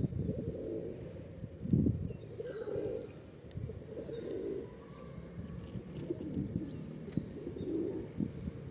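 Pigeons cooing, a low call repeated every second or two, with a few faint higher chirps from small birds and a dull thump just under two seconds in.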